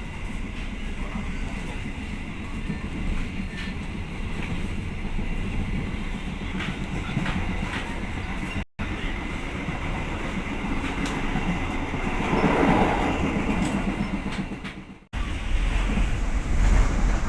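Passenger train running along the track, a steady rumble with wheel clatter that swells about three quarters of the way through. The sound cuts out completely for a moment twice.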